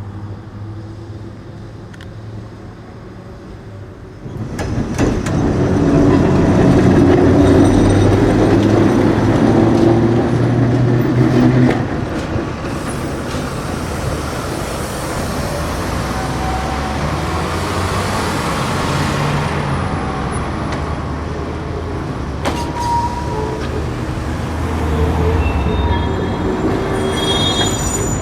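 Perley Thomas streetcar running along the rails, arriving loudly about four seconds in: a steady rumble of wheels on track with motor hum. There is a short high squeal near the end.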